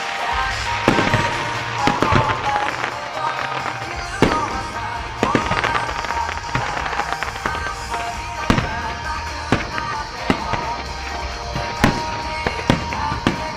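Aerial fireworks bursting in sharp bangs at irregular intervals, about one a second, over loud J-pop music with a steady bass line that the show is synchronised to.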